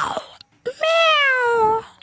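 Domestic cat giving one long, drawn-out meow that sinks slowly in pitch toward its end. It comes just after a short, noisy sound at the very start.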